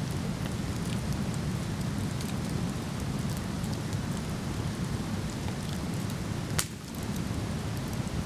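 Steady low rush of a waterfall, with small crackles from a wood campfire; about six and a half seconds in, the burning wood gives one sharp, loud pop.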